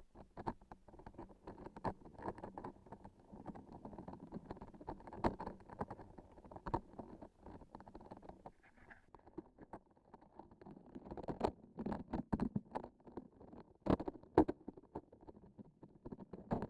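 Close-miked handling of sticky transparent objects: a dense, irregular run of small crackles and taps from pressing and squeezing them, with a cluster of louder, sharper ticks about two-thirds of the way through.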